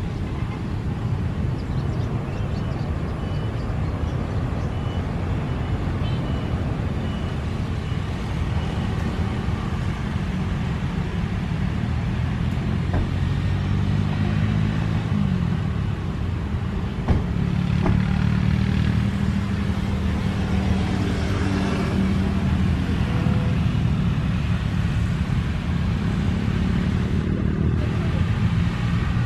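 Steady low engine rumble with a pitched hum that slides down in pitch partway through, over constant noise.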